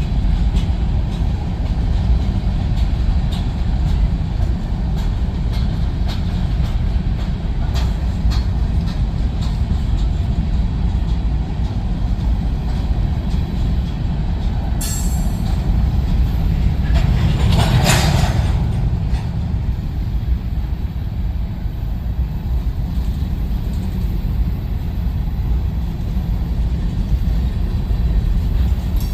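Freight train cars rolling past, a steady low rumble of steel wheels on the rails with scattered faint clicks, and a brief hiss about two-thirds of the way through.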